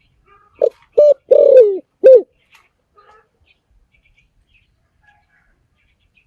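Spotted dove cooing: a phrase of four low coos in under two seconds, the third one long and falling in pitch.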